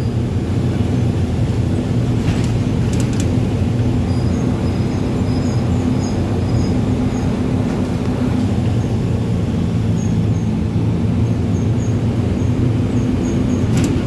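Mercedes-Benz 1724L bus's diesel engine running at a steady, unchanging speed, with a few faint high chirps and clicks over it.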